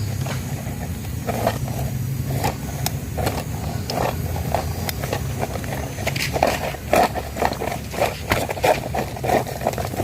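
Plastic toy cars being handled and rolled, a run of irregular clicks and clatters that grows busier and louder in the second half, over a steady low hum.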